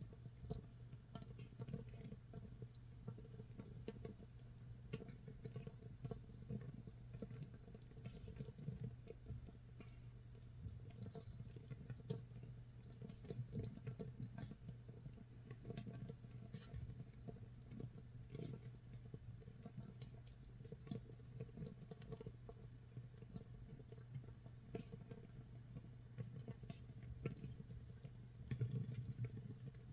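Makgeolli starter mash (mitsul) fermenting in a crock, 24 hours in: a dense, irregular crackle of tiny bubbles popping, like rain or rice crust sizzling, over a faint steady low hum.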